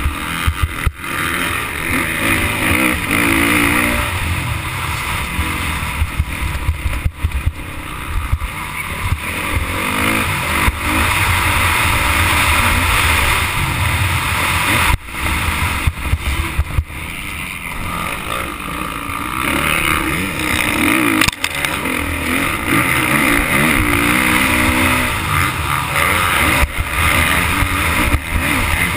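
Motocross bike engine revving up and down as it is ridden hard, with a rushing noise over it and a few brief dips in loudness.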